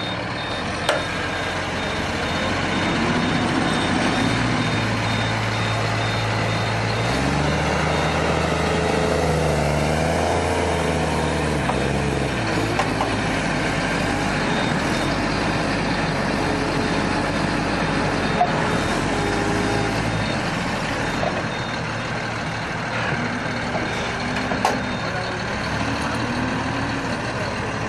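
Tractor engine running, its speed rising and falling in steps.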